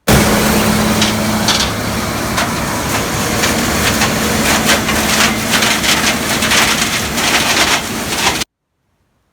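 Gleaner combine harvester running in standing corn: a steady machine hum under dense, irregular crackling and crunching of stalks and ears being taken in. It starts abruptly and cuts off suddenly about eight and a half seconds in.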